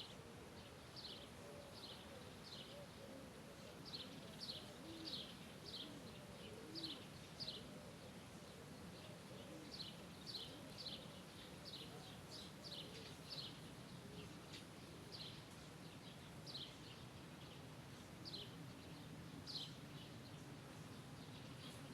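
Quiet birdsong: a small bird repeats short, high chirps that sweep downward, about one or two a second, with fainter, lower calls beneath.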